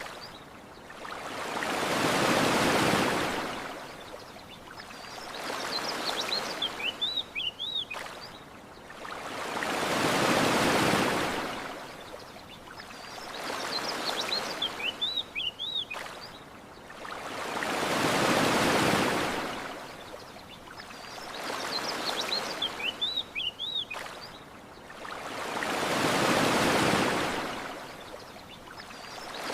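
Ocean waves washing onto a shore, one swell rising and falling about every eight seconds. Short, high bird chirps come in the lulls between waves, the same pattern repeating each time.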